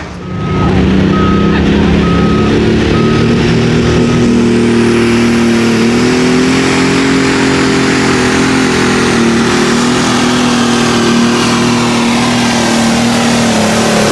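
Tractor engine running loud and steady under load, its pitch rising slightly about five seconds in. A short electronic beep sounds about once a second, five times, over the first four seconds.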